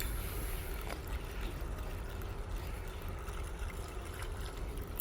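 Steady harbour-side ambience: a low rumble of wind on the microphone with water lapping, and a faint click about a second in.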